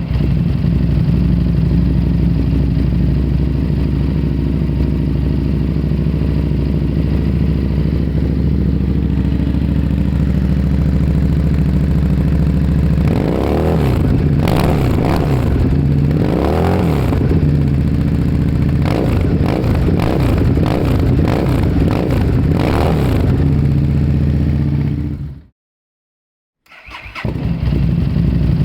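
Harley-Davidson Street Rod's V-twin idling with a loud exhaust, then revved in a series of throttle blips about halfway through, each rising and falling in pitch. Near the end the sound cuts out abruptly for about a second and the engine is heard running again.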